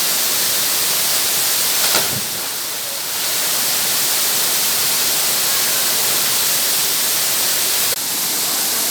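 Waterfall rushing close by: a steady, loud hiss of falling water that dips briefly about two seconds in.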